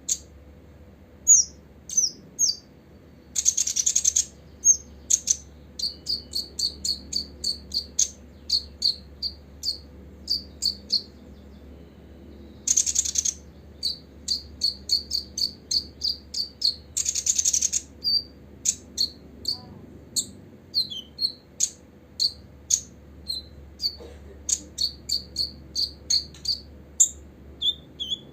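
Copper-throated sunbird calling: long runs of short, high chirps at about three a second, broken three times by a harsh, buzzy burst lasting about a second.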